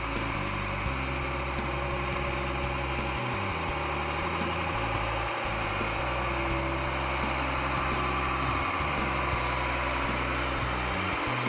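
Case IH STX485 QuadTrac tractor's diesel engine idling steadily.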